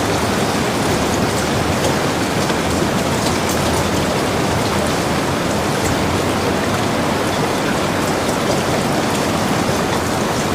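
Steady rain falling: a dense, even hiss of rain with faint scattered drop ticks.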